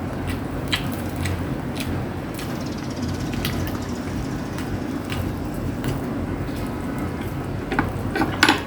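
People eating rotisserie chicken: scattered small clicks and crackles of the food being handled and chewed, with a quick cluster of sharper, louder clicks near the end, over a steady low hum.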